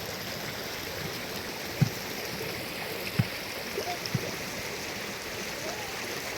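Steady rush of water, with a few dull low thumps about two, three and four seconds in.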